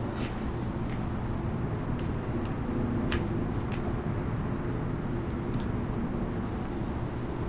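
Small songbird calling: short bursts of three or four quick, high chirps every couple of seconds, over a steady low background rumble.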